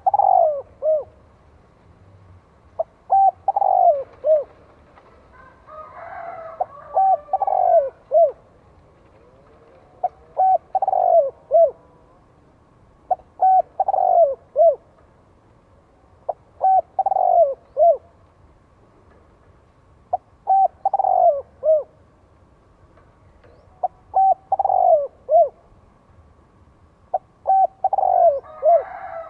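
Spotted dove cooing its song, a short phrase of a few coos, one drawn out and falling, repeated about every three and a half seconds. A second, higher bird call overlaps twice.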